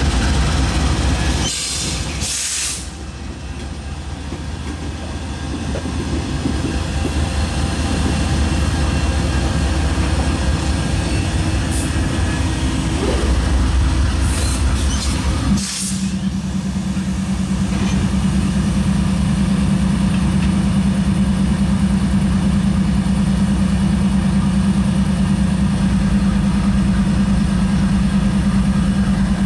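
Norfolk Southern freight train passing at slow speed, its diesel locomotives giving way to autorack cars, with a steady rumble of engines and rolling wheels. Short sharp noises come about two seconds in and again around the middle, and a steady low drone sets in about halfway through.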